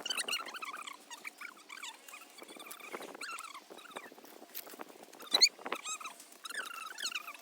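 Fast-forwarded timelapse audio: chattering, squeaky sped-up voices with quick rustles and clicks, and a sharp knock a little past five seconds in.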